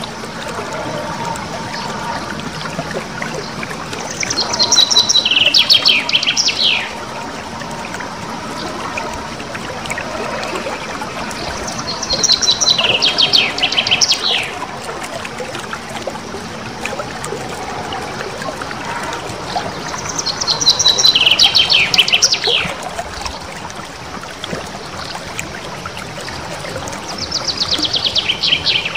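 Small songbird singing a rolling trill of rapid notes that fall in pitch, each phrase about two to three seconds long, repeated four times about every eight seconds. Steady trickling water runs underneath.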